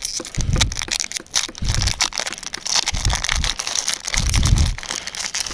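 Foil wrapper of a Pokémon trading-card booster pack crinkling and crackling as it is torn open and handled, with four short low thuds spaced a little over a second apart.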